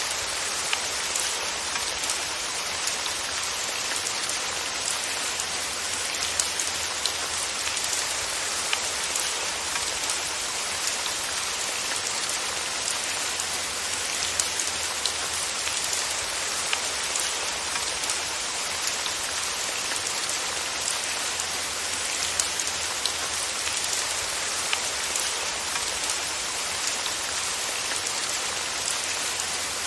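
Steady rain falling, an even hiss dotted with many small, scattered drop ticks.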